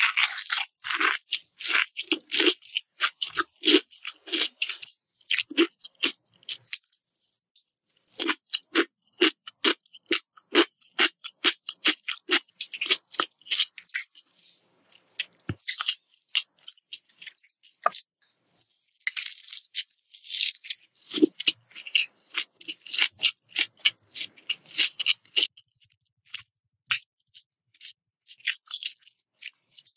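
Close-miked chewing of Indonesian savory martabak (duck egg pancake) and pickled cucumber, onion and chili: quick runs of crunchy, wet chews, broken by short pauses between bites.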